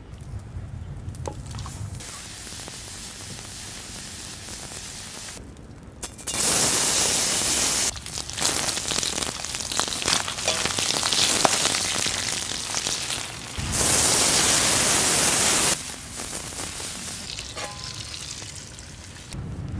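Pork belly frying in a wok, sizzling steadily, with a spatula stirring it. Twice the sizzle turns to a much louder hiss for about two seconds, starting and stopping abruptly.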